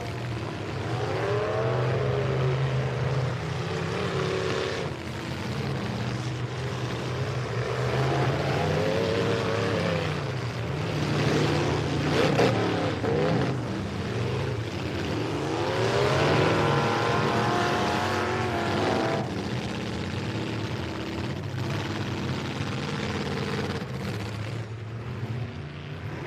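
Several demolition-derby truck engines revving hard, their pitch rising and falling over and over as they overlap, under a steady rumble of idling engines, with a few sharp impacts.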